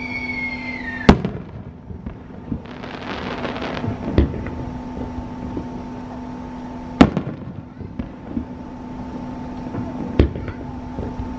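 Aerial fireworks shells bursting: a falling whistle ending in a sharp bang about a second in, a spell of crackling, then three more single bangs about three seconds apart.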